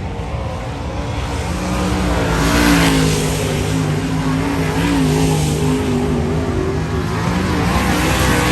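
Dirt-track modified race cars running on the track, their engine notes wavering in pitch. The sound builds to its loudest about three seconds in and stays loud.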